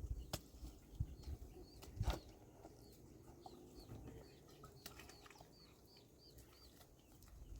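Faint, high bird chirps, short and repeated, in the middle stretch, with a few sharp knocks near the start.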